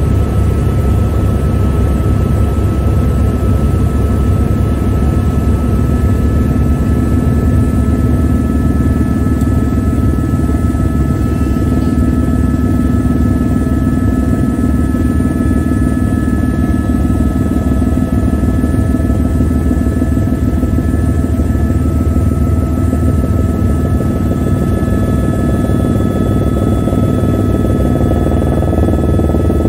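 Helicopter cabin noise in flight: the rotor's steady low thrumming with a constant high turbine whine over it.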